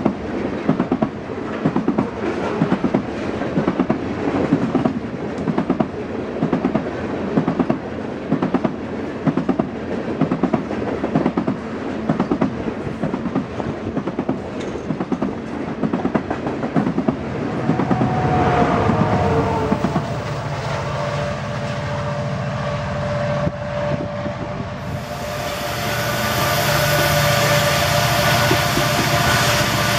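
Coal cars of a freight train rolling past with a rhythmic clickety-clack of steel wheels over the rail joints. About two-thirds of the way through, the clicking gives way to the steady drone and whine of an approaching EMD SD70MAC diesel-electric locomotive, the distributed-power unit at the rear of the train, growing louder near the end.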